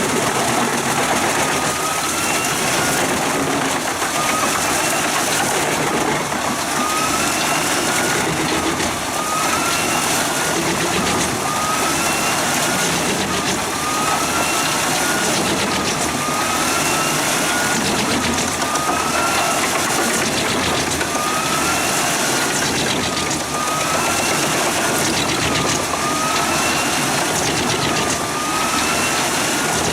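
Heavy forestry wood-chipping machinery running with a loud, steady noise. A whine rises and falls about every second and a half.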